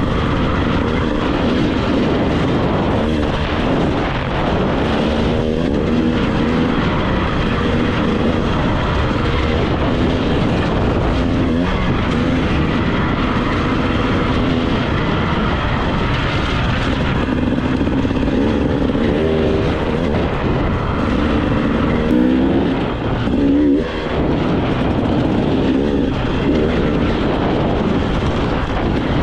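2025 GasGas EC 300's two-stroke engine running under way on a trail ride, its revs rising and falling as the bike is ridden.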